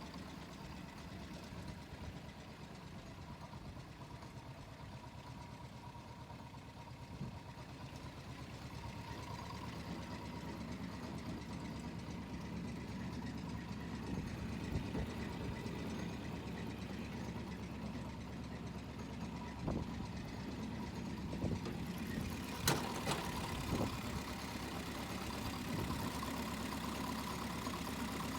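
Two-cylinder diesel engine of a Yanmar C12R-A crawler carrier running steadily at idle, slowly getting a little louder, with a few sharp knocks in the second half.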